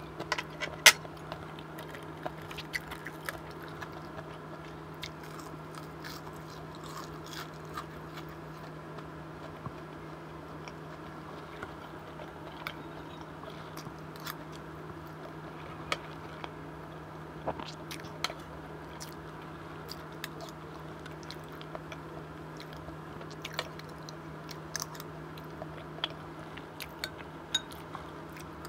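Close-miked chewing and biting sounds of a person eating, with scattered sharp clicks of a metal spoon against a ceramic bowl, the loudest about a second in, over a steady hum.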